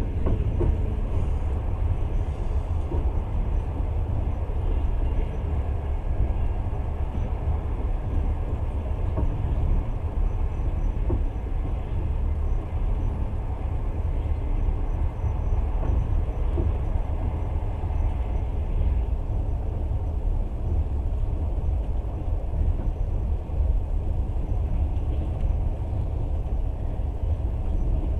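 Passenger train running steadily, a continuous low rumble of the wheels on the track.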